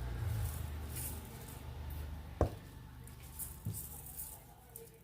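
Light rustling of fresh herbs being handled and dropped into a pot, with a sharp knock about two and a half seconds in and a lighter one a second later.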